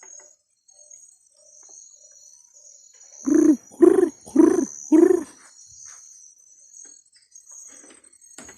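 A bird in the rainforest calling four times in quick succession, loud, low notes about half a second apart, over a steady high-pitched drone of insects.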